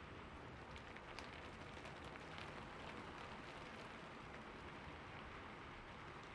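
Steady rainfall, a soft even hiss of rain with a few individual drops standing out.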